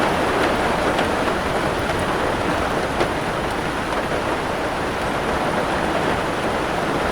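Steady heavy rain, a dense even hiss of drops with a few distinct drop ticks, one a little sharper about three seconds in.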